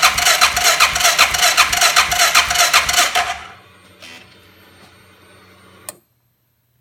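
Electric starter cranking the Suzuki King Quad 700 ATV's engine in rapid, even pulses without it catching, a no-start; the cranking stops a little over three seconds in, leaving a faint hum and one sharp click just before it goes silent.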